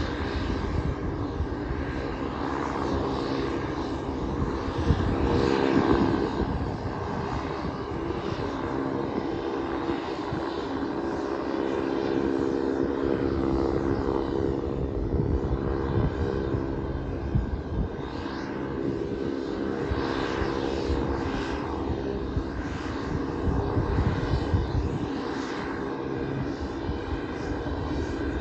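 Pilatus PC-12's single Pratt & Whitney Canada PT6A turboprop running on the ground, a steady propeller drone with a fluctuating low rumble underneath. It swells briefly louder about five seconds in.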